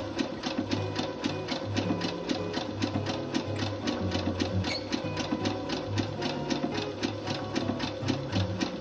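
Domestic sewing machine running steadily, its needle stitching through a stretched elastic waistband in an even rhythm of about four to five strokes a second.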